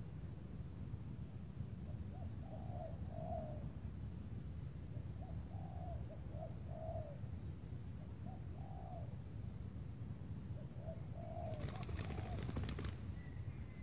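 Spotted doves cooing, short rolling coo phrases repeated every two to three seconds. A fast, high ticking trill comes and goes above them, and a brief cluster of sharp clicks sounds near the end.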